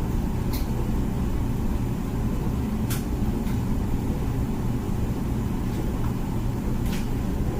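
Comfee dishwasher running its wash cycle: a steady low rumble of the pump and circulating water, with a few short sharp clicks at scattered moments.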